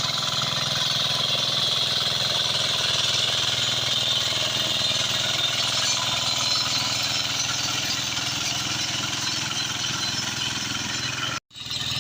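Walk-behind hand tractor engine running steadily under work, with a brief dropout near the end.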